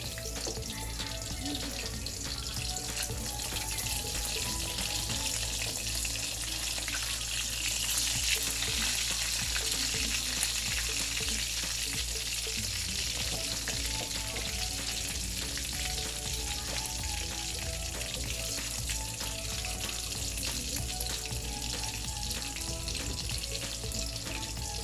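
Chicken burger patties frying in a pan: a steady sizzle that swells a little in the middle as they near done.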